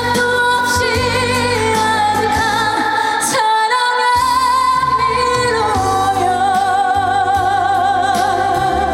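A woman sings a trot song live over a band backing track, holding long notes with a wide vibrato. The bass drops out briefly about three and a half seconds in.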